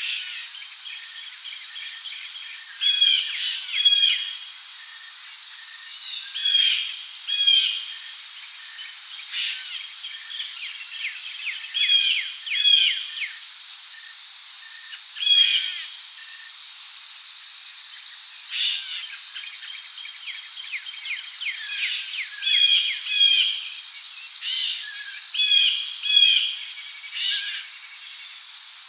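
Rainforest ambience: a steady high-pitched drone of crickets, with birds calling short notes, often in quick pairs, every few seconds.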